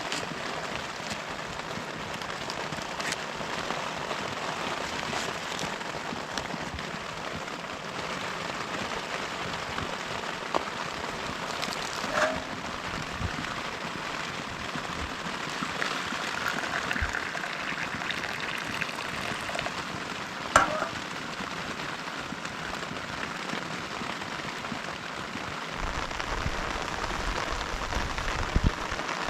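Steady heavy rain falling, with a few sharp clinks or knocks, the loudest about twelve and twenty seconds in. A low rumble comes in near the end.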